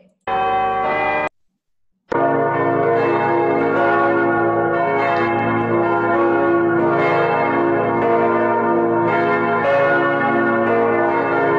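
Church bells swinging in a tower and ringing together, several bells overlapping in a continuous peal. A short burst of ringing comes first, then a brief gap, then the full peal.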